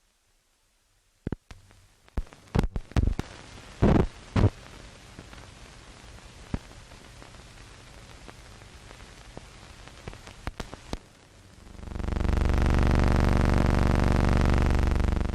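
Old optical film soundtrack hiss with scattered pops and crackles, then a loud steady buzz for about three seconds near the end.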